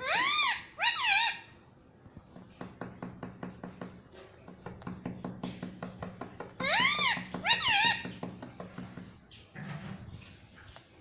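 Ringneck parrot calling twice, each call a pair of loud, high, arching notes. The calls are about six seconds apart, with faint quick clicking and a low steady hum between them.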